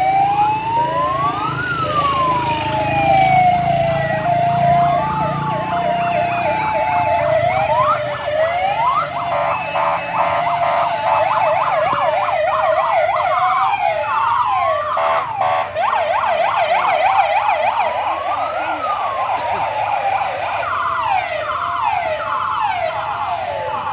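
Several wailing sirens sounding together, each slowly rising and falling in pitch and overlapping one another, with short steady tones among them. Engines rumble underneath, strongest in the first half.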